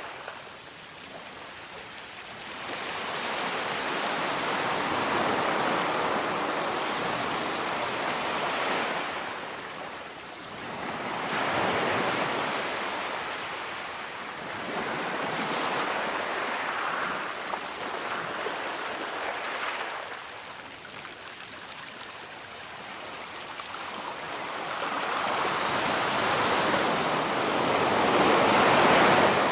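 Ocean surf: waves surging and washing in three times, each swell building over a few seconds and then falling away.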